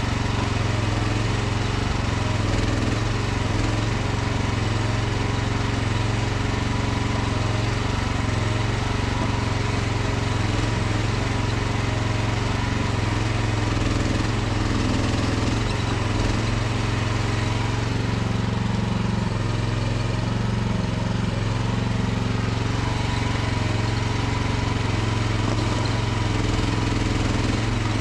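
Small mini excavator engine running steadily under work, with a constant low hum; its lower note shifts briefly about two-thirds of the way in.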